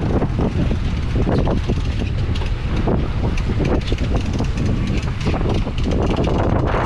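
Wind buffeting the microphone on a moving fishing boat, over a steady low engine rumble.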